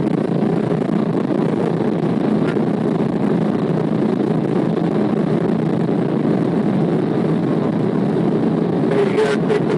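Steady engine and road noise of a police patrol car being driven, with a run of short clicks near the end.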